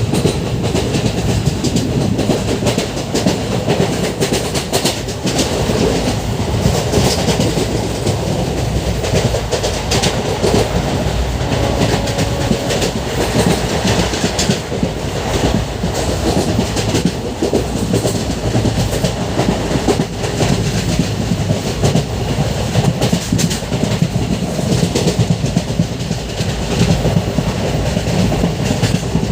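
Passenger train running along the track, a steady rumble with the wheels clattering over the rails, heard from on board a coach.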